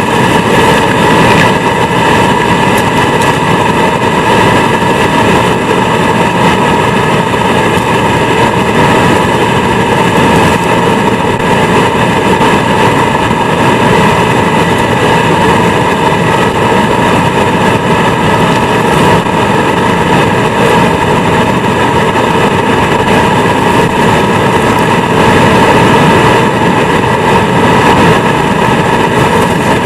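Vacuum cleaner motor running steadily at full power, heard from inside the vacuum: a loud rush of air with a steady whine.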